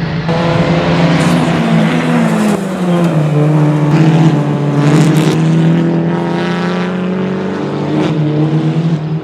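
Touring race cars running at racing speed, their engines loud and continuous, with several engine notes overlapping and the pitch rising and falling as they accelerate and ease off.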